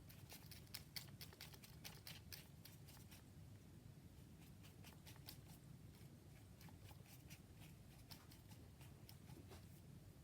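Faint, quick snips of scissors cutting paper, close together for the first three seconds and then more spread out.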